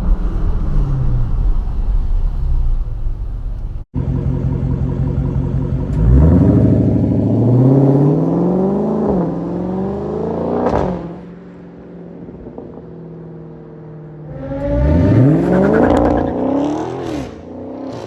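Dodge Charger Scat Pack's naturally aspirated 6.4-litre HEMI V8 exhaust under two hard accelerations. The pitch climbs and drops back briefly at each quick upshift, with a quieter steady cruise in between.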